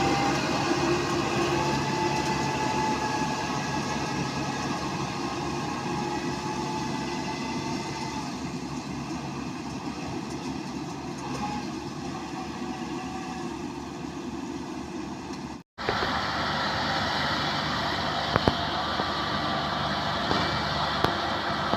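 Combine harvester's engine running steadily as the tracked machine rolls along, with faint sustained whining tones over the engine noise. The sound drops out for an instant about two-thirds through, then resumes as a similar steady machine noise with a few sharp clicks.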